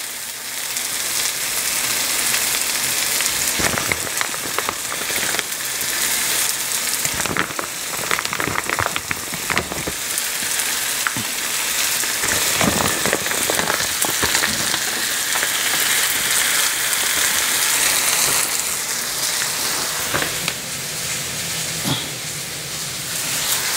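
Peppers, riced cauliflower and pre-cooked grilled chicken sizzling steadily in a hot pan, with scattered light clicks and knocks as the chicken pieces go in.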